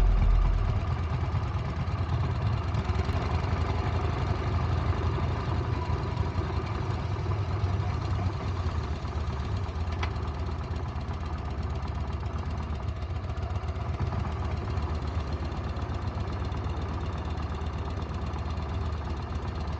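Yamaha Bolt XVS950 motorcycle's air-cooled V-twin engine running steadily.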